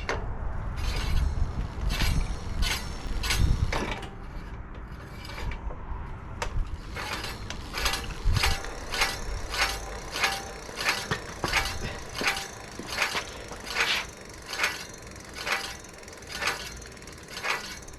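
E-bike rear wheel spun by turning the pedals, its disc brake rotor catching on the caliper once each turn: a regular tick or scrape about three times every two seconds, which says the rotor is still rubbing after the caliper was realigned.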